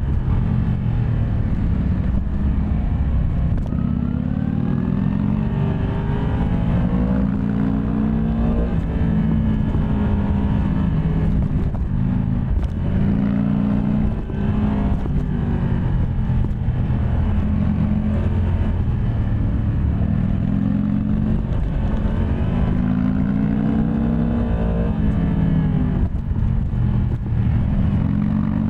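Yamaha MT-10 SP's crossplane inline-four engine under way, the revs climbing and dropping again and again as the rider works the throttle and shifts gears.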